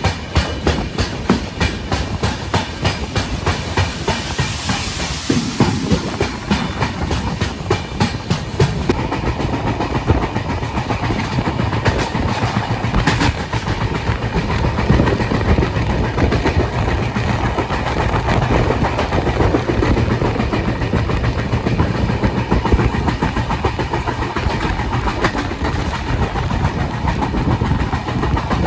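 Janshatabdi Express passenger coaches running at speed, the wheels clattering over rail joints in a fast, regular clickety-clack. After about eight seconds the clatter blends into a steadier rumble and rush.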